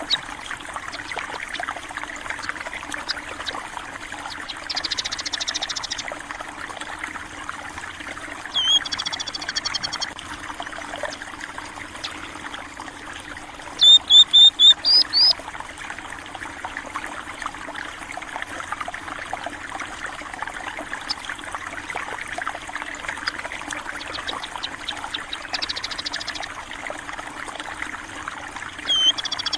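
Running stream water trickling steadily, with small birds chirping over it: a trill about five seconds in, another call near nine seconds, four loud sharp chirps around the middle, and further trills near the end.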